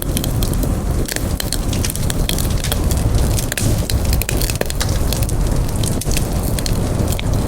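Campfire burning steadily, with many sharp pops and crackles over a low rumble from the flames.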